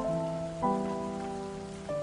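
Steady rain falling, with soft instrumental music over it: sustained chords, a new one struck at the start, about two-thirds of a second in and near the end, each fading slowly.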